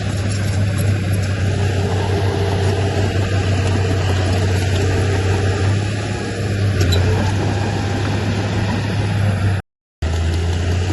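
Heavy diesel engine of earthmoving machinery running steadily with a deep, even hum. The sound cuts out completely for a moment near the end, then resumes the same.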